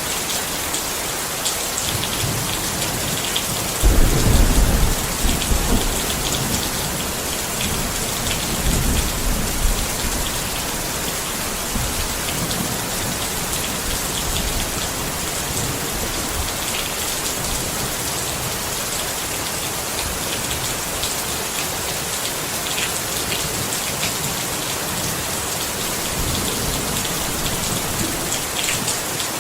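Steady rain falling on a tent. A low rumble of thunder starts suddenly about four seconds in and fades within a couple of seconds, and a weaker rumble follows a few seconds later.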